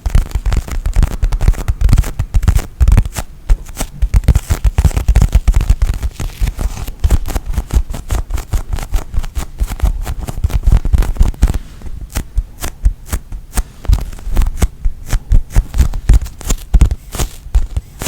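Squishy foam bread toy being squeezed and handled: rapid, irregular soft thuds and crackly taps. They come thick at first and thin out into sparser, sharper clicks about twelve seconds in.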